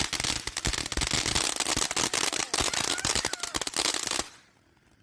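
Consumer firework crackling: a dense, rapid run of sharp pops and crackles that cuts off suddenly about four seconds in.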